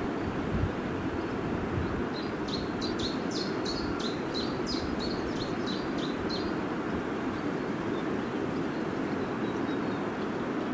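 A small bird sings a quick run of about a dozen high notes from about two seconds in, over a steady low rumble of outdoor background noise.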